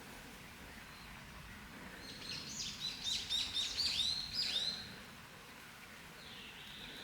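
A songbird singing one quick phrase of rapid, repeated downward-slurred notes, lasting about three seconds.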